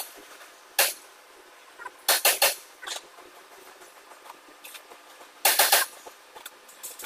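Sharp taps or knocks in short quick clusters: a single one about a second in, four in quick succession around two seconds in, and four or five more near the end.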